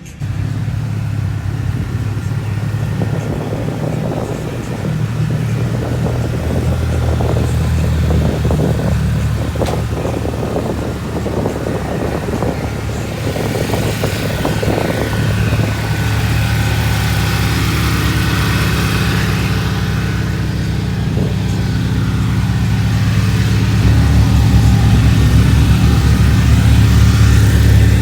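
Car engine running steadily, its low drone stepping to a new pitch twice.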